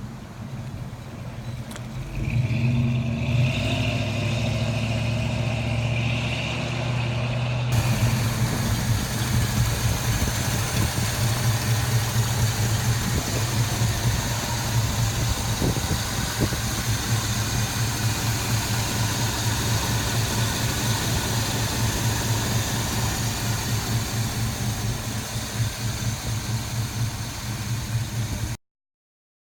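The 1972 Chevrolet K10's 350 V8 running through its dual exhaust with a low, steady rumble. It builds over the first two seconds. About eight seconds in the sound changes abruptly to a rougher, noisier rumble, which cuts off suddenly near the end.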